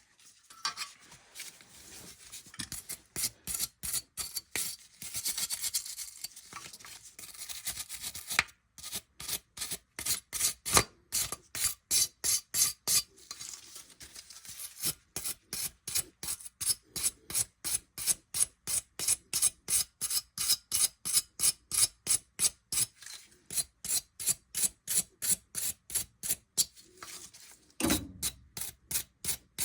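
Hand scrubbing or abrading a metal gas-furnace part, as in cleaning the burners: irregular rubbing at first, then steady back-and-forth rasping strokes about three a second. A heavier thump comes near the end.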